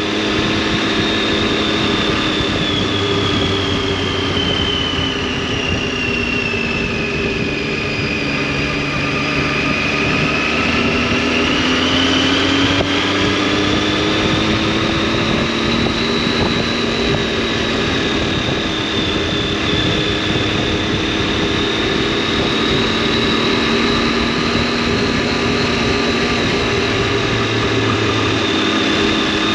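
Triumph Tiger 800's three-cylinder engine and exhaust running steadily on the move, under a steady rush of wind and road noise. The engine note dips a little about eight seconds in and climbs back a few seconds later, as if easing off and opening the throttle again.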